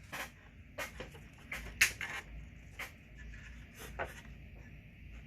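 A string of short clicks and light taps from hands and a tool working on rubber fuel line and small fittings, about eight in all and irregularly spaced, the loudest about two seconds in.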